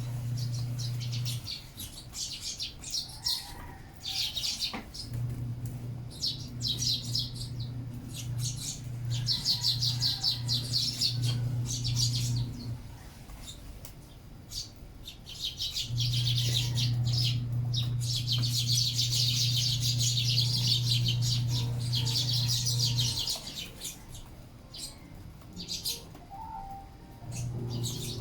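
Sparrows chirping in bursts of rapid, high twittering, several clusters with short pauses between. A low steady hum comes and goes several times alongside.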